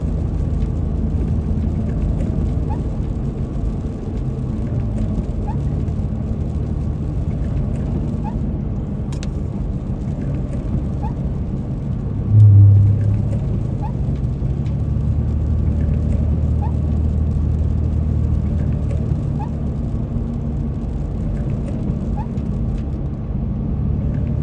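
Car engine and road noise heard inside the cabin: a steady low rumble, with a faint short chirp about every second and a half and a brief louder low hum about halfway through.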